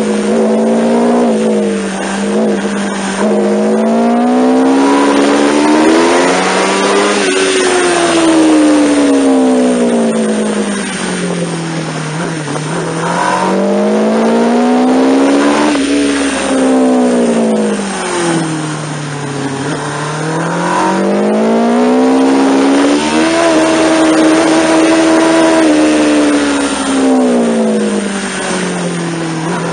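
Sport motorcycle engine heard from the rider's seat at speed on a race track. The revs climb under acceleration and fall away on closing the throttle into corners, three times over, holding high for a while before the last fall.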